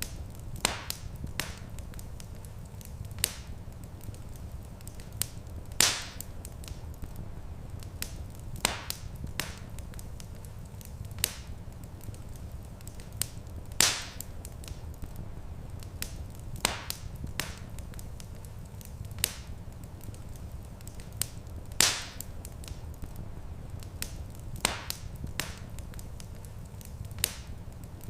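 Wood fire crackling in a fireplace: irregular sharp pops and snaps, with a few louder ones roughly every eight seconds, over a steady low rumble.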